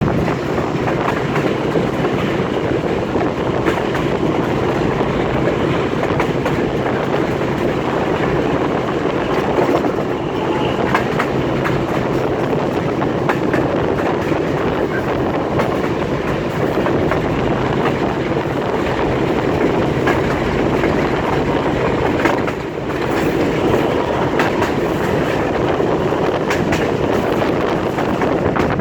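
Passenger train running along the track, heard through an open carriage window: a steady rumble with the clickety-clack of wheels over rail joints, briefly quieter about three-quarters of the way through.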